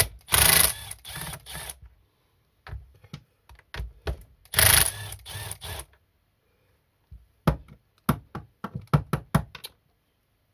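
Ratchet wrench clicking in two quick runs of about a second and a half each, then slower single clicks and knocks, as a 13 mm socket undoes the nuts on a McCulloch 438 chainsaw.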